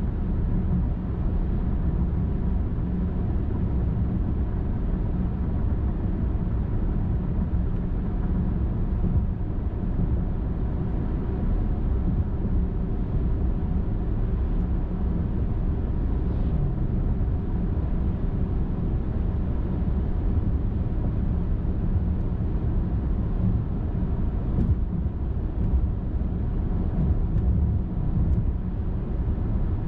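Steady road noise of a car driving along a highway: low tyre rumble and engine hum, even throughout.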